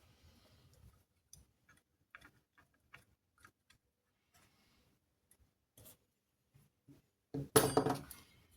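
Scattered light clicks and taps of small objects being handled, with a louder rattling clatter near the end.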